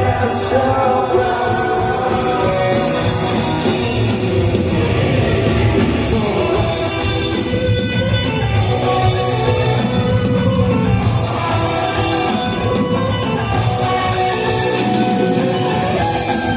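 Rock band playing live, with drum kit, guitar and a singer.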